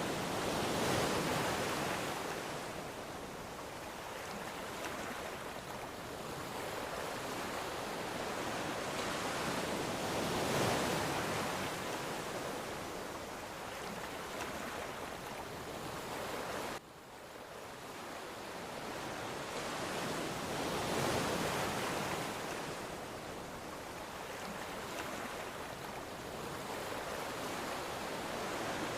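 Ocean surf: waves washing in and drawing back in a steady hiss, swelling about every ten seconds. The level drops suddenly about seventeen seconds in, then builds again.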